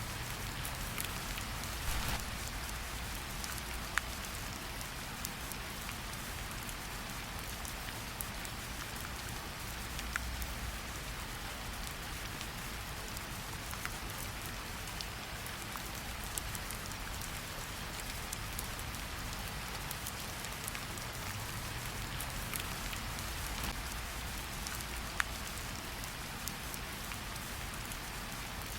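Steady forest rain falling, with a few louder single drops now and then.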